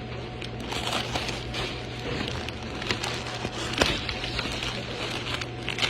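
Restaurant room noise: a steady low hum under a general clatter, with scattered clicks and one sharper click a little before four seconds in.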